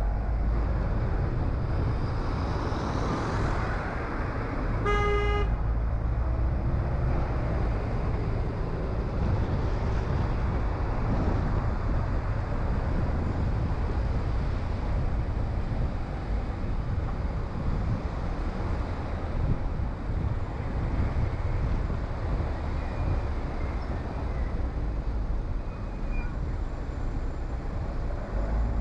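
Steady car road and engine noise while driving, with one short car horn toot about five seconds in.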